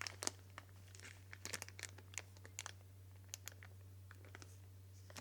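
Faint crinkling and light clicking from a small plastic package of lock hardware and screws being handled, in scattered short crackles over a steady low hum.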